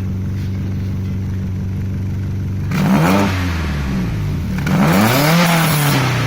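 Subaru EJ207 turbocharged flat-four idling steadily through a modified Cobb cat-back exhaust, then blipped twice, the second rev longer, the pitch rising and falling back to idle each time.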